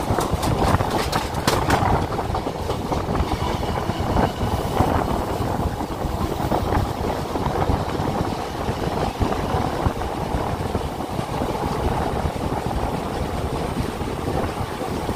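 Passenger train running, heard from on board: a steady rumble and rattle of the coaches on the track, with a few sharp clicks in the first two seconds.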